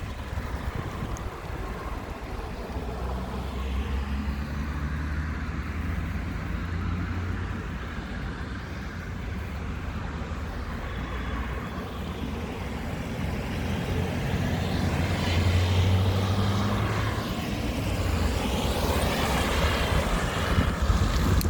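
Wind on the microphone with the low hum of a motor vehicle, which swells about four seconds in and again about fifteen seconds in.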